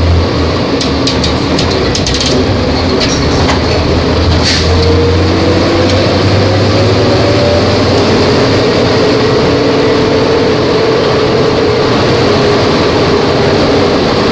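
Volvo B270F bus's diesel engine running under way, its pitch rising slowly from about four seconds in and then holding steady. A few sharp rattles or clicks come in the first few seconds.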